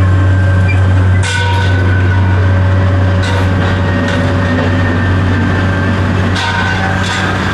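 A heavy engine running steadily at constant speed with a deep, even hum. Short bursts of hiss come every two or three seconds.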